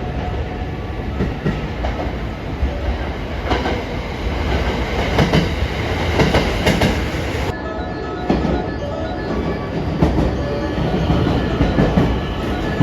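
Train running along a station platform, a steady rumble with wheels clacking over rail joints.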